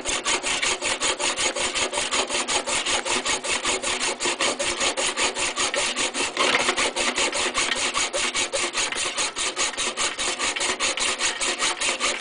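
Hand-held hacksaw blade sawing with fast, even back-and-forth strokes, about six a second.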